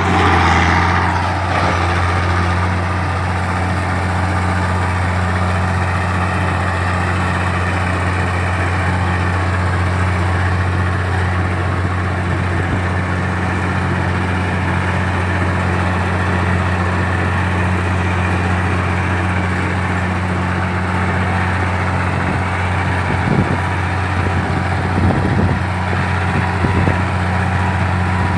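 Komatsu D60-8 bulldozer's diesel engine running steadily, swelling louder for a moment at the start. A few short knocks come a few seconds before the end.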